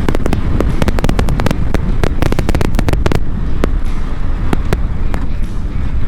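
KTM 390 Adventure's single-cylinder engine and wind making a steady low rumble while riding the trail, overlaid by rapid, irregular sharp clicks that come thick for about three seconds and then thin out.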